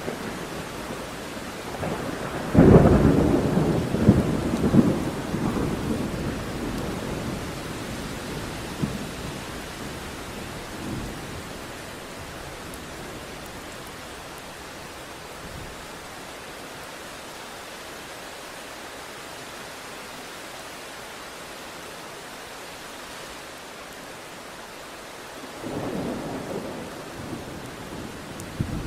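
Thunderstorm: steady hiss of rain, with a loud crack of thunder about two and a half seconds in that rumbles away over several seconds, and another, softer roll of thunder near the end.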